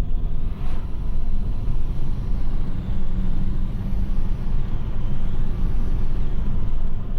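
Opel Corsa C 1.3 CDTI four-cylinder turbodiesel running with a heavy low rumble. A faint high whistle dips and rises again around the middle. This is the kind of weird noise the owner hears from the turbo when accelerating, although the engine pulls with no loss of power.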